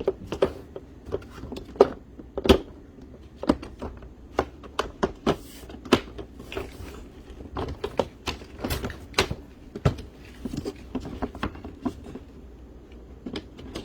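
Hard plastic parts of a foldable cat litter box knocking and clicking as they are handled and pressed to snap together. The taps and clacks are irregular, a few loud knocks among many lighter ones.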